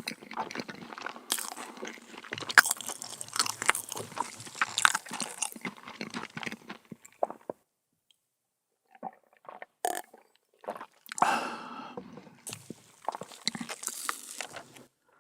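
Close-miked mouth sounds of a person biting and chewing crunchy dessert, with crisp crunches and wet chewing; the chewing stops for a moment about halfway through, then resumes.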